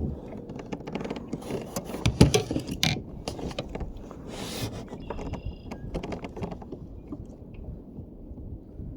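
Irregular knocks, clicks and scraping of gear being handled aboard a fishing kayak, with a cluster of louder knocks about two to three seconds in.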